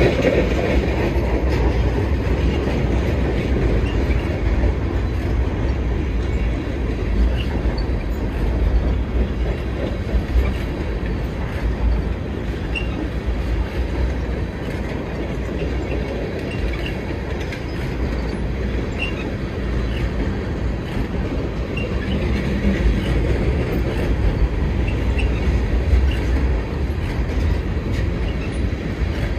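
Freight train of flatcars loaded with wind-turbine blades rolling past: a steady rumble of steel wheels on rail, with brief, faint wheel squeals scattered through.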